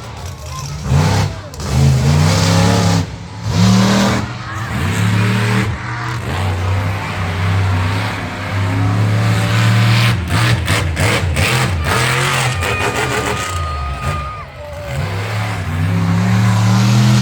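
Monster truck engine revving hard in repeated short bursts, then held at a steady high run, with a cluster of sharp clicks in the middle and a rising rev near the end.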